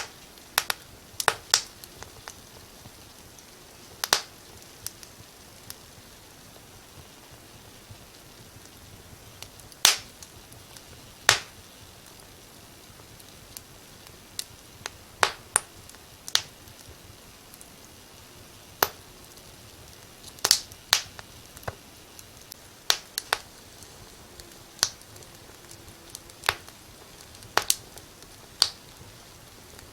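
Wood fire crackling in a fireplace: irregular sharp pops and snaps, a few clustered together and some louder than others, over a faint steady hiss.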